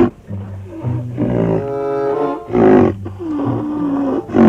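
Animal roar sound effects, several short rough growls with the loudest near the end, over background music.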